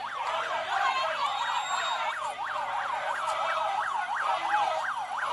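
Electronic vehicle siren on a fast yelp setting, its pitch sweeping up and down about three times a second.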